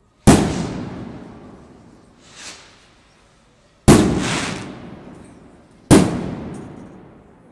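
Aerial firework shells bursting overhead: three sharp bangs, just after the start, about four seconds in and about six seconds in, each dying away slowly over a second or two. A fainter hiss comes between the first two bangs.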